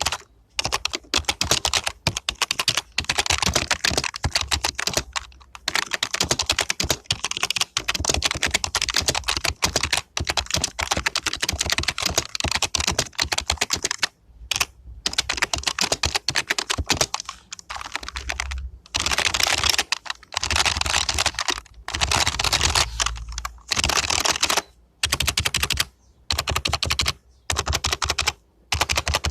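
Typing on a Mitsumi KFK-EA4XT rubber-dome membrane keyboard: fast runs of key presses broken by short pauses, turning into shorter separate bursts near the end.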